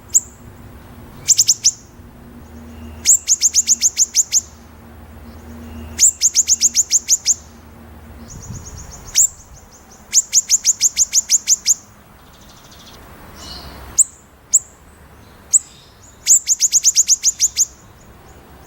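White-rumped shama (murai batu) singing its sharp 'besetan': five rapid trains of high, piercing repeated notes, each lasting about a second, with single sharp notes in between.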